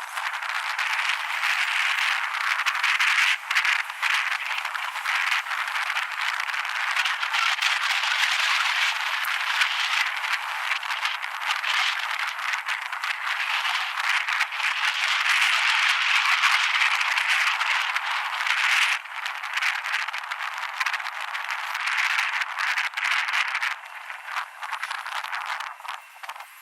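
Wind rushing over the microphone during an electric skateboard ride, with dense rattling and crackling through it. It eases off near the end.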